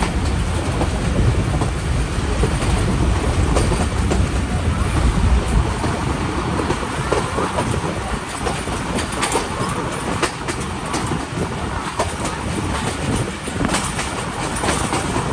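Passenger train coach running along the track, heard from its open window: a steady rumble of wheels on rail with scattered sharp clicks.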